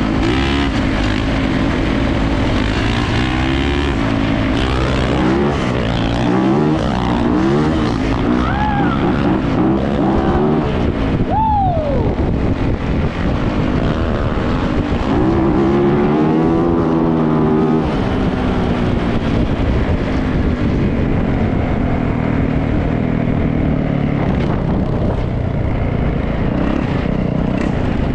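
Yamaha YZ450F dirt bike's single-cylinder four-stroke engine running under load while riding, revs rising and falling repeatedly as it accelerates and shifts.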